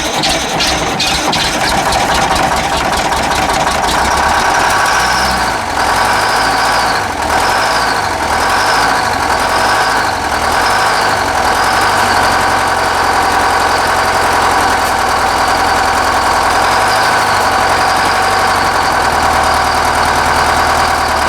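Detroit Diesel 4-71 two-stroke diesel in a 1972 Terex loader running moments after a cold start with no block heater or glow plugs. From about four seconds in, its speed rises and falls about once a second for several seconds, then settles into a steady idle.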